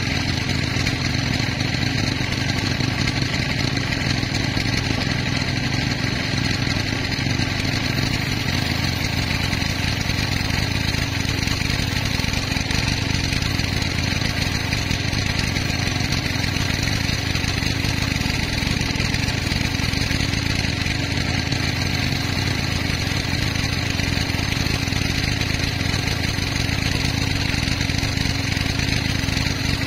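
Sawmill machinery running steadily, an even engine-like hum that does not change.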